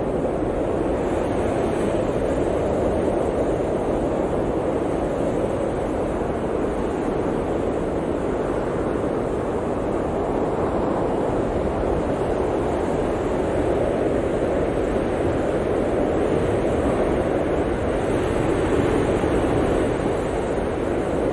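Blizzard wind blowing hard and steadily, a dense rushing noise that swells and eases slowly.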